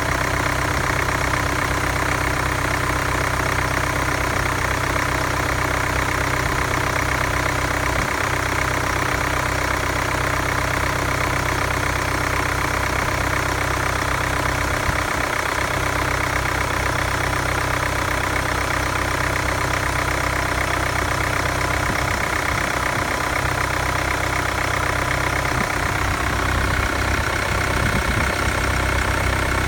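2018 Mercedes-Benz GLA 200 d's 2143cc four-cylinder turbo diesel idling steadily.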